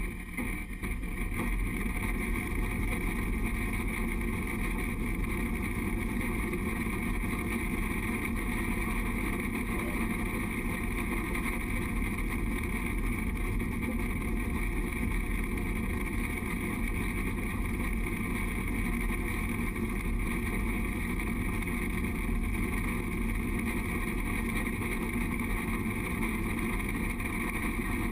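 Durango & Silverton narrow-gauge train running steadily along the rails, a constant rumble of wheels and running gear.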